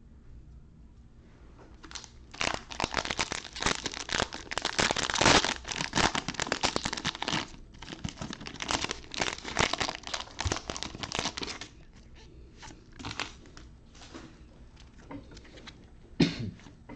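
Trading card pack wrapper crinkling and tearing as it is opened, a dense rustle for about ten seconds, followed by sparser rustles and clicks of the cards being handled.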